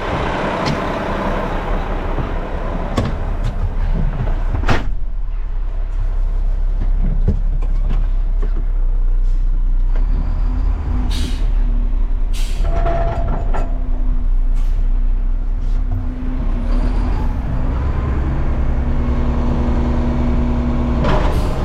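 Garbage truck's diesel engine running, with a couple of sharp knocks about three and five seconds in. From about halfway the engine settles into a stronger, steadier note.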